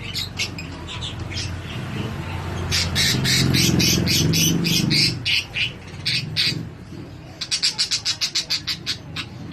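Cockatiels squawking and chirping: scattered calls, then a run of loud squawks, and near the end a fast series of short chirps, several a second.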